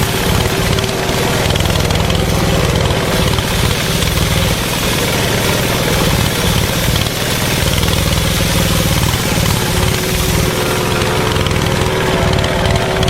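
Small engine running steadily with a low rumble, at an even level throughout.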